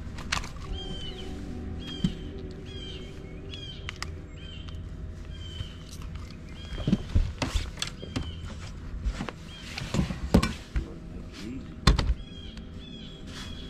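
A bird chirping over and over, short calls about two a second, over a faint steady low hum. A few loud knocks break in around the middle and again near the end.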